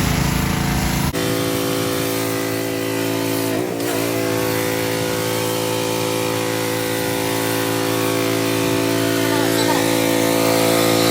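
A machine running with a steady, unchanging hum and hiss that starts abruptly about a second in.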